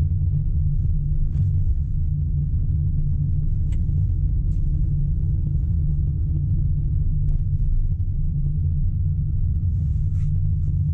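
A car driving along a road: a steady low rumble of road and engine noise, with a few faint ticks.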